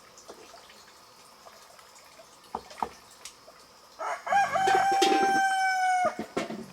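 A rooster crowing once, about four seconds in: a single drawn-out call lasting about two seconds. A couple of sharp knocks come shortly before it.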